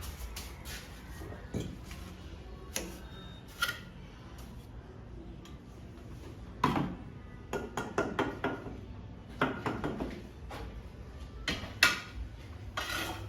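Bricklaying: a steel trowel scraping and tapping on bricks and mortar, giving irregular sharp clicks and scrapes that come in quick clusters in the second half.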